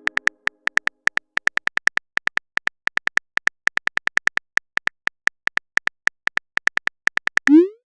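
Smartphone keyboard typing clicks, about five a second at an uneven pace, ending near the end with a short rising whoosh like a message being sent.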